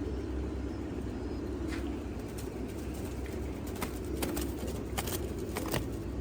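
Domestic pigeons cooing in a flock, a continuous low murmur, with a few sharp clicks or taps in the second half.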